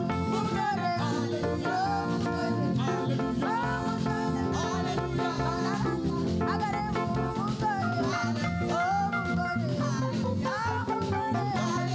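Live praise band music with a plucked electric guitar over a steady bass and drum groove, and singing.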